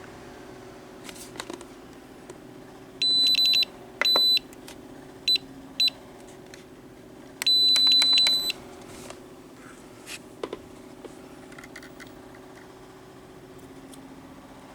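High-pitched electronic beeps from an RC helicopter transmitter's buttons as its pitch setting is adjusted: a quick run of beeps, a single beep, two short beeps, then a longer run of rapid beeps, with a few small plastic clicks in between.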